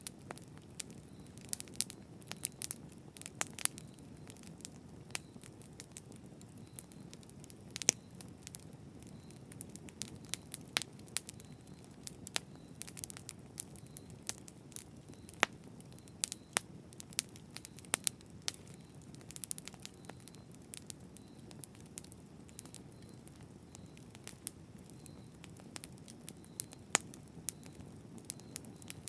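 Campfire burning with a steady low rumble and frequent sharp, irregular crackles and pops of burning wood.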